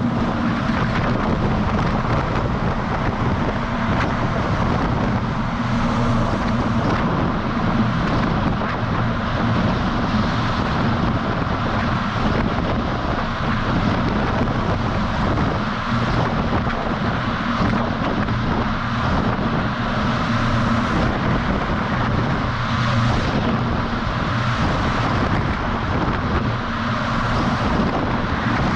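DAF XF semi truck driving, heard from a camera mounted on the outside of the cab: a steady low engine drone under a continuous rush of road and wind noise, with wind on the microphone.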